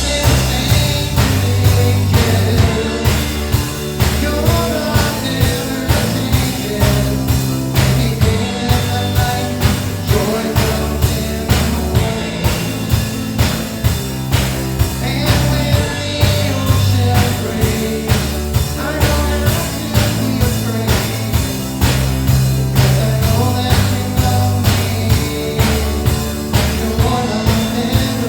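Worship song played by a band in a rock style, with a drum kit keeping a steady beat of about two pulses a second, bass and guitar, and singing.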